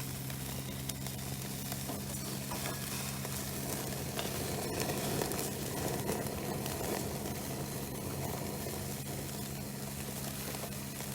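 Wood bonfire crackling and sizzling steadily, with faint small pops, over a steady low hum.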